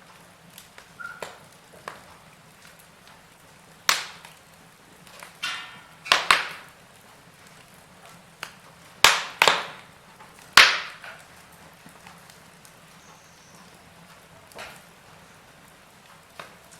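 Wood fire crackling, with irregular sharp pops and snaps over a soft steady hiss. The loudest pops come in a cluster around the middle.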